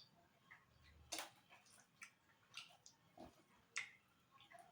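Faint mouth sounds of eating noodles and boiled egg by hand: a few irregular wet clicks and lip smacks from chewing, the loudest about a second in and again near the four-second mark.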